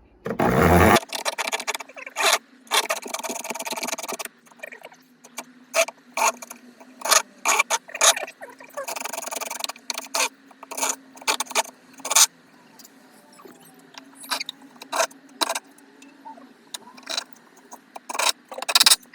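Hand-tool work on the slicer's metal and wood: a loud knock about half a second in, then irregular clicks, knocks and short scraping strokes as a saw or blade is fitted and tried.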